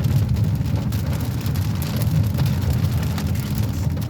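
Steady low rumble of a moving car heard from inside the cabin, with rain hitting the windshield, the rain eased to lighter fall.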